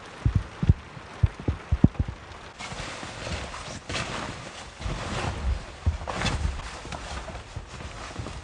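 Strong wind gusting against the microphone, with a quick run of low, heavy thumps in the first two seconds.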